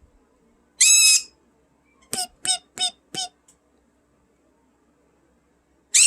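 Pet parrot calling under its cage blanket: one short squawk-like call about a second in, then four quick chirps in a row, quiet, and another call starting near the end.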